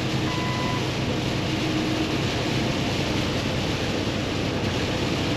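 Inside the cab of a Kenworth T680 semi truck at highway speed in heavy rain: the Paccar MX13 diesel engine runs steadily under a constant hiss of tyres and road spray. A brief faint high beep sounds shortly after the start.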